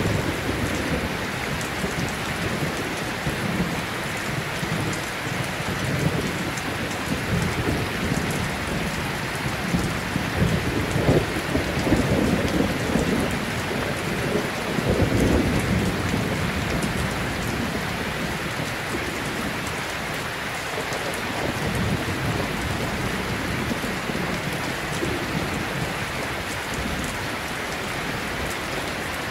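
Steady rain with low rumbles of thunder, swelling about ten to sixteen seconds in.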